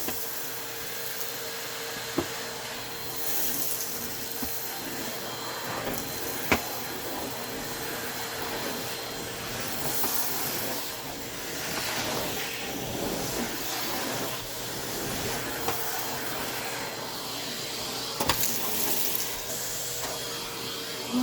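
Vacuum cleaner running steadily, its pitch swelling and easing as it is worked over the floor, with a few sharp knocks.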